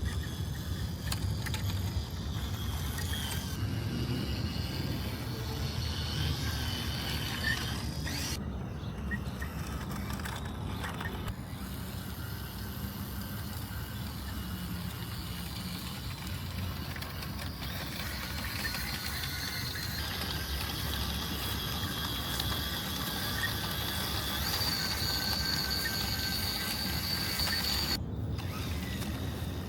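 WPL C24 RC crawler truck driving, its Hobbywing brushless motor and aluminium transmission whining with gear rattle as it crawls. The sound changes abruptly a few times, and a high whine stands out near the end.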